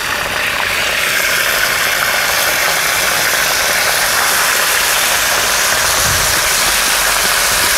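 Cubed beef sizzling loudly in very hot oil in an iron wok as it is put in, searing. The sizzle builds over the first second, then holds steady.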